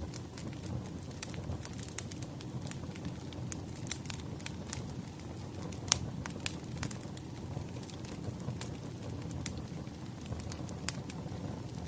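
Wood fire crackling: a steady low rumble with frequent irregular sharp pops of burning firewood, the loudest about six seconds in.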